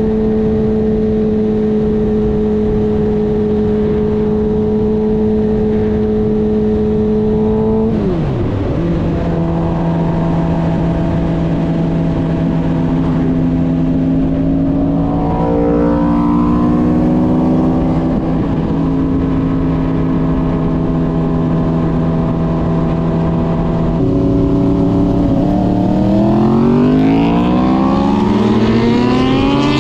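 Car engine running at steady revs, then dropping sharply in pitch about eight seconds in as the revs fall. Near the end the pitch climbs steadily as the engine accelerates hard.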